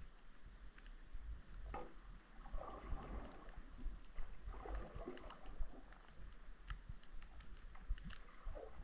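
Underwater sound picked up by a submerged camera deep in a lake: a constant low rumble with scattered faint clicks, and two short hissing patches a few seconds in.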